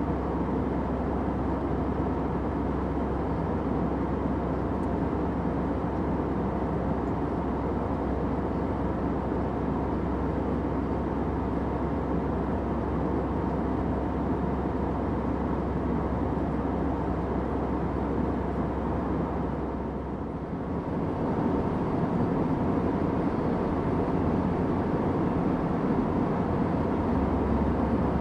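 Steady airliner cabin drone: an even rush of engine and air noise with a low hum underneath. About twenty seconds in it dips briefly, then carries on as before.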